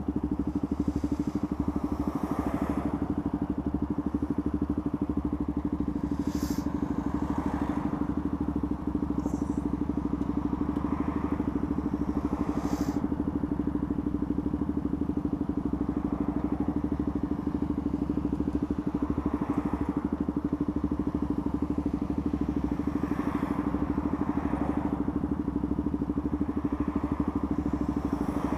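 Motorcycle engine idling steadily, with traffic passing now and then and a couple of brief clicks.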